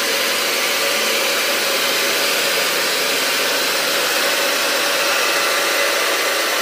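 XCMG truck-mounted crane's engine running steadily as it drives slowly along a road, heard as an even, hissing rush of noise with no rise or fall.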